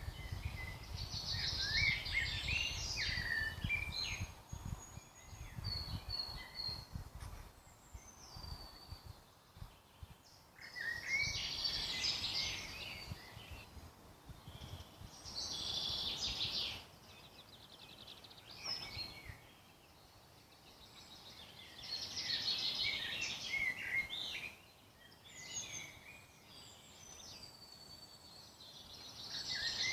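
Woodland birdsong: a songbird sings short phrases of two to three seconds, about every ten seconds, each a quick run of varied notes and trills, with fainter single calls between. A low rumble sits under the first third.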